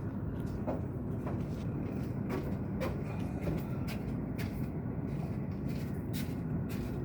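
Car engine running with a steady low rumble and irregular sharp ticks and clicks over it: the grinding noise that began after a new water pump was installed.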